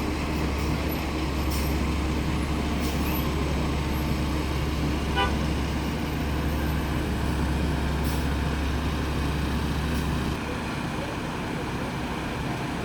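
Road traffic: a motor vehicle's engine running with a steady low drone that drops off about ten seconds in, and a short high chirp near the middle.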